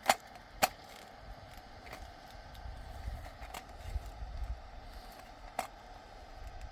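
Two sharp wooden cracks about half a second apart, then a few fainter clicks, over a low rumble: twigs being snapped to feed a small twig stove.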